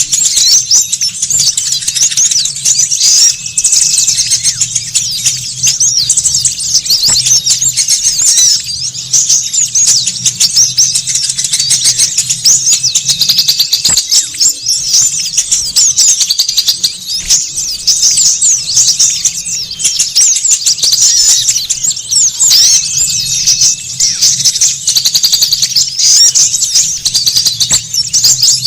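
A dense, busy chorus of many small songbirds, chirping and twittering rapidly at a high pitch without pause, as played to lure wild birds. A faint low hum runs underneath.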